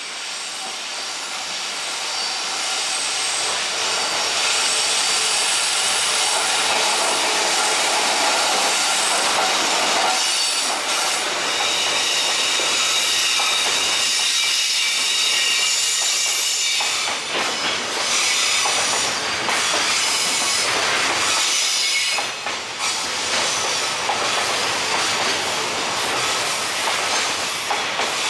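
Long JR Freight container train hauled by an EF66 electric locomotive passing close by. It builds up over the first few seconds, then runs loud and steady with a high-pitched squeal from the wheels on the rails.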